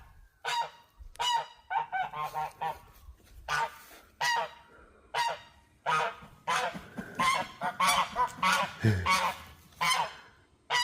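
Geese giving a long string of short, repeated honking calls, several birds overlapping, coming faster and busier in the second half.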